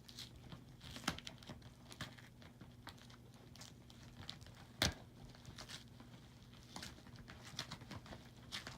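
A mailed package being opened by hand: faint crinkling and tearing of the packaging with scattered small clicks, and one sharper snap about five seconds in. A low steady hum runs underneath.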